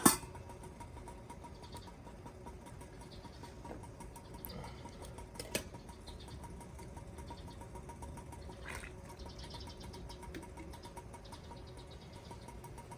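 Wood campfire crackling steadily with a few sharp pops, the loudest right at the start and smaller ones about five and a half and nine seconds in.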